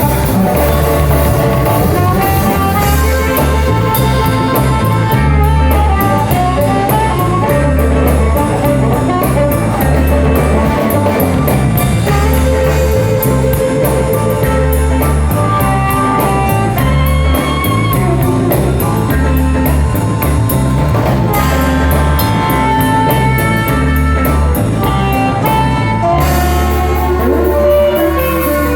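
Blues band playing with electric guitar, bass and drum kit, the beat running steadily throughout.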